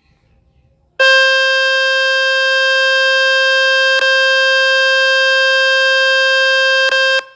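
Loud, steady, buzzy speaker-cleaning tone from the Fix My Speaker website, played to shake dust and water out of a phone speaker. It starts about a second in, breaks briefly twice, and cuts off just before the end.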